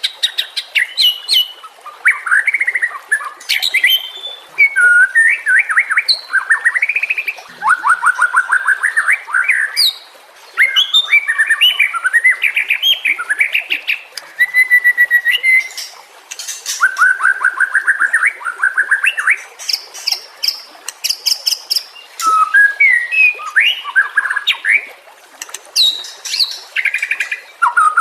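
White-rumped shama singing a varied run of whistled phrases and fast trills, in bursts broken by short pauses.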